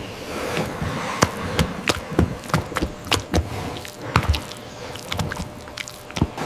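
A series of irregular knocks and thuds, about two a second, over a faint steady hum.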